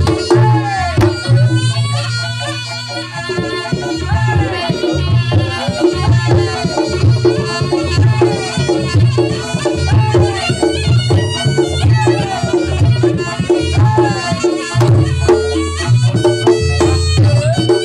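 Reog gamelan ensemble playing at full volume: a steady, even beat of drums and gongs, with repeated ringing metallic tones and a bending, reedy slompret melody over the top.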